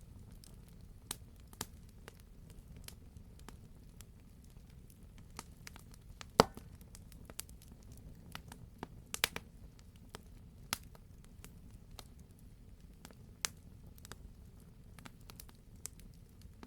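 Wood fire burning in a fireplace: a low steady rumble with scattered sharp crackles and pops, one much louder pop about six and a half seconds in.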